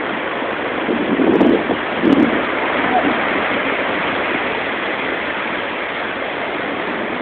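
Ocean surf washing up the beach in a steady roar, mixed with wind on the phone's microphone, with two brief louder bumps about one and two seconds in.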